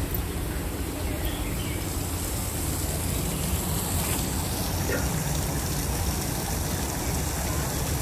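Waterfall: a steady, unbroken noise of falling water, heaviest in the low range.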